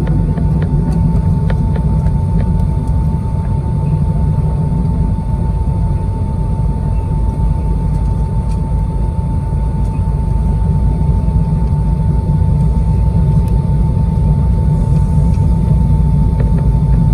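Steady jet-engine rumble heard inside a Boeing 767 cabin, with a constant high whine above it and a few faint ticks.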